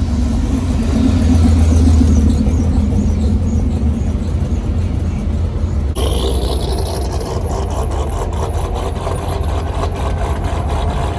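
1961 Chevrolet Corvette C1's 283 small-block V8 running loud, peaking about two seconds in and then easing slightly. After a sudden change about six seconds in, a steady low rumble of several Corvette V8s idling in line, with a faint high whistle and scattered ticks.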